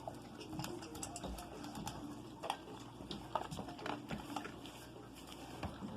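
A dog nosing through and eating from a bowl of dry dog food: irregular clicks and taps of kibble being pushed around and chewed.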